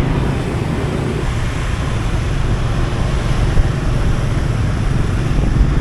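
Steady wind rush buffeting the microphone while riding pillion on a moving Honda Wave motorbike, with the small single-cylinder engine running under it.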